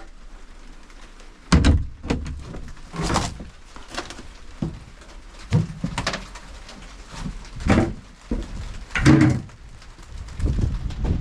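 Irregular knocks and thumps, about eight or nine of them at uneven intervals, over a steady low hum.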